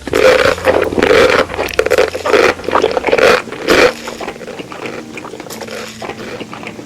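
Loud scraping and crackling noises close to the microphone, strongest for about four seconds and then much quieter, over soft background music.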